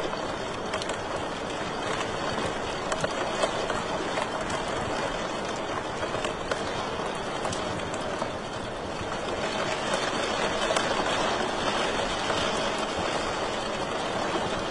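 Wood fire crackling in a fireplace: a steady rushing hiss with frequent small sharp pops.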